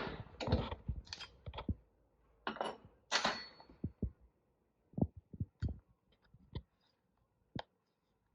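Hammer blows on metal knocking the old bushing out of a tractor powershift sun gear: about six sharp strikes, some ringing briefly, followed by a few lighter taps and clicks.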